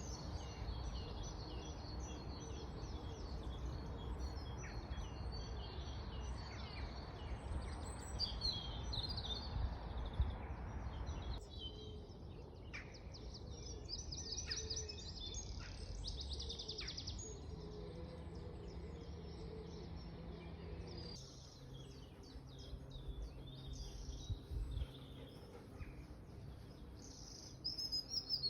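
Several songbirds singing and chirping, with a rapid trill about sixteen seconds in. They sing over a low rumble of background noise that drops off abruptly about a third of the way through.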